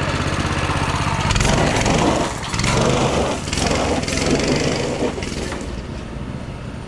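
Go-kart's small Coleman mini bike engine running under throttle as the kart drives off, its tires throwing gravel in surges, fading as it moves away near the end.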